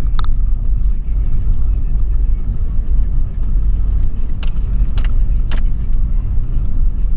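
Low, steady rumble of a 2013 Toyota 4Runner's V6 and tyres driving over sand dunes, heard from inside the cabin. A short high chirp comes right at the start, and three sharp clicks about half a second apart come near the end.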